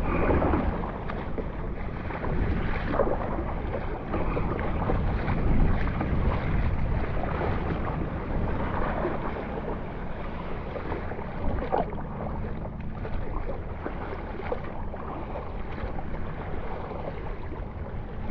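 Water splashing and sloshing as a kayak is paddled through choppy water, with wind buffeting the microphone.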